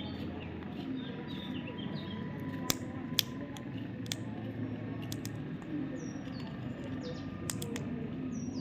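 Baby parrot chirping: short, high, falling chirps come now and then over steady low background noise, with a few sharp clicks.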